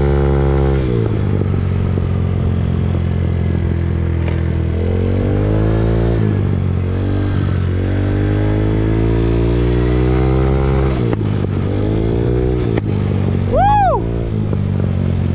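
Moped engine being ridden, revving up and easing off several times, with heavy wind on the microphone. Near the end, a short high tone rises and falls.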